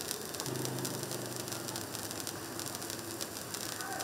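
Handheld firework fountain spraying sparks with a steady hiss.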